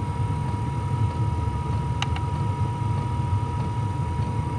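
Diesel air heater running on its lowest setting: a steady low hum of its combustion fan with a thin steady whine above it, and one sharp click about two seconds in.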